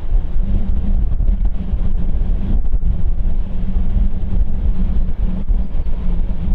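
Jet airliner engines making a steady low rumble, with a faint hum in it and wind buffeting the microphone.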